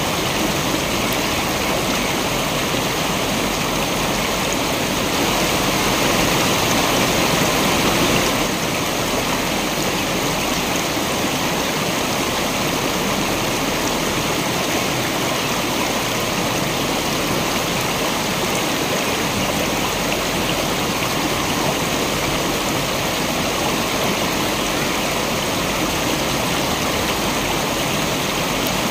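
Waterfall rushing steadily in an even, continuous wash of water noise. It swells slightly about five seconds in and settles back about three seconds later.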